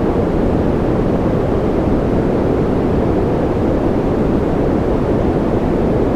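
Steady electronically generated noise of the kind sold as white noise for sleep, even and unbroken, weighted toward the low range so it sounds like a deep rush with little hiss.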